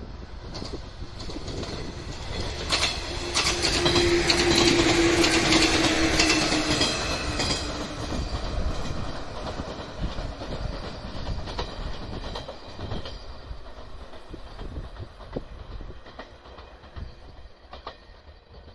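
A yellow JR West electric multiple-unit train passing on the rails, its wheels clacking over the rail joints. It grows louder as it approaches, is loudest about four to seven seconds in as it runs past, then fades as it moves away.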